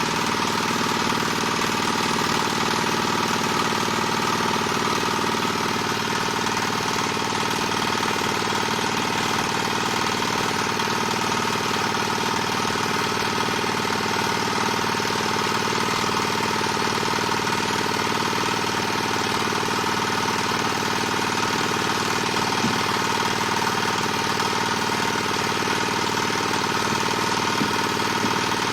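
Diesel engine of a small single-screw palm oil press running steadily with a knocking beat.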